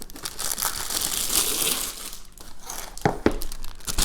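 Plastic packaging crinkling and being torn open by hand, with a few sharp crackles about three seconds in.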